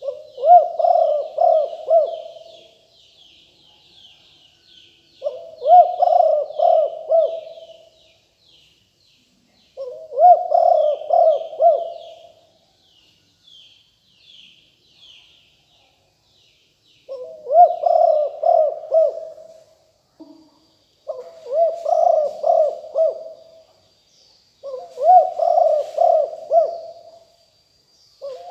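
Spotted dove cooing: six phrases of several rolling coo notes, each about two seconds long, repeated every four to five seconds with a longer pause midway. Faint small-bird chirping sits behind it in the first half, and a thin steady high whine in the last third.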